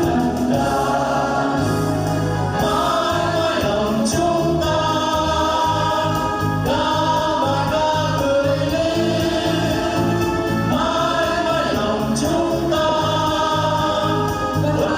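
A group of voices singing in unison over an amplified backing track with a steady beat.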